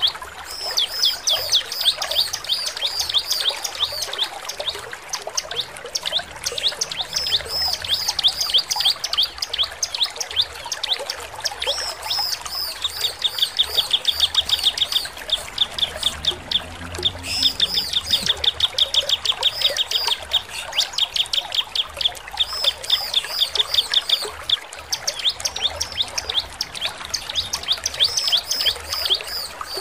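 Bar-winged prinia (ciblek) in full, persistent song: a continuous stream of quick, high chirping notes, with fast trills twice around the middle.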